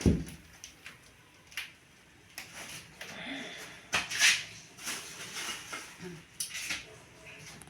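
A dull thump, then scattered scraping and rustling of things being handled, loudest about four seconds in.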